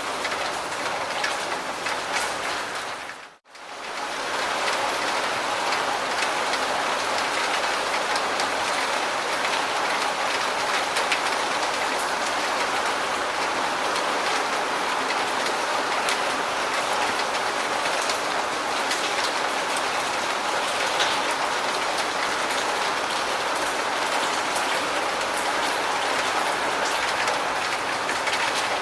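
Steady rain falling, a dense patter of drops. A little over three seconds in it briefly dips to silence and comes straight back.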